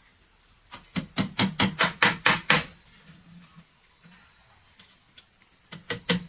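Rapid hammer blows on wood, a quick run of about nine strikes, then a pause and a few more near the end.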